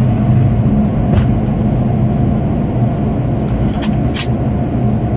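Cockpit noise of a Boeing 787-9 during takeoff: a loud, steady mix of engine hum and airflow at takeoff thrust, with a few short sharp clicks or rattles about a second in and again near the end.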